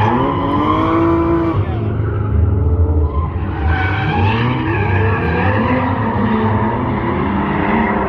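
Drift cars at speed: engines revving hard, pitch climbing and dropping again several times, with tyres skidding.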